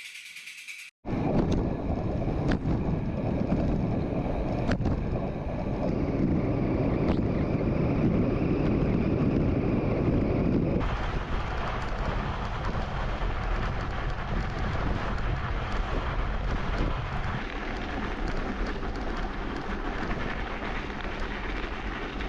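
Wind buffeting the microphone, a loud, even rumble with a few faint ticks, which shifts to a thinner, hissier sound about halfway through.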